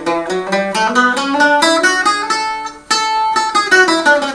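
Old Böhm waldzither, restored and strung as an eight-string bouzouki tuned G D A E, being played: a quick run of picked notes, then a fresh loud strike of several strings together about three seconds in, followed by more picked notes.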